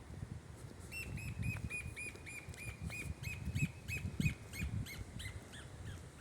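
A bird calling, a series of short, evenly repeated notes at about three a second. The notes slide lower and fade near the end.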